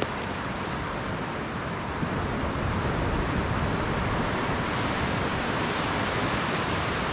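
Steady rush of surf and wind, getting a little louder about two and a half seconds in.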